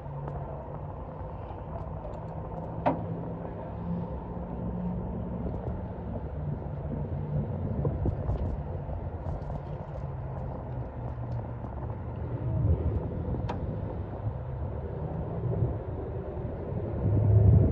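A car driving, heard from inside: a steady engine hum that shifts in pitch with speed over road noise, with two sharp clicks about three seconds in and again about thirteen seconds in.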